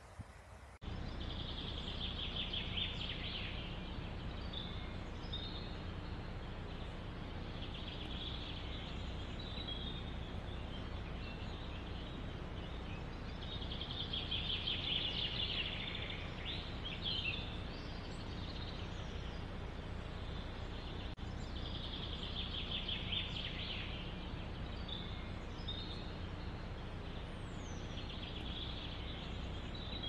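A songbird repeating a short, rapid trilled song about every six seconds, with short chirps in between, over a steady low background noise.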